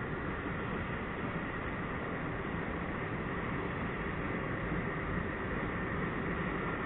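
Norfolk Southern freight train rolling slowly past as a steady, even noise of wheels on rail, with no distinct horn, bell or joint clicks.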